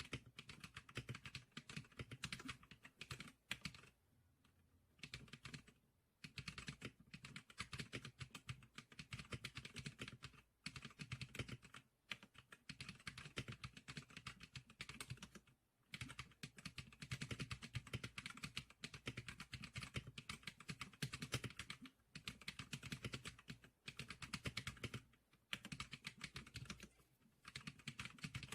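Fast, continuous typing on the Geeklicker SPK100 keyboard: dense runs of key clicks broken by several short pauses.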